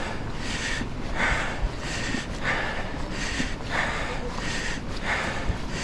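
A person breathing hard, close to the microphone, in quick, even breaths about every two-thirds of a second, as when out of breath on a steep climb.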